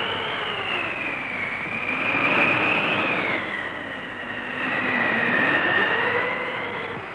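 Tornado sound effect: a steady roar of wind with a howling whistle that slowly wavers up and down in pitch. It swells twice, about two seconds in and again about five seconds in.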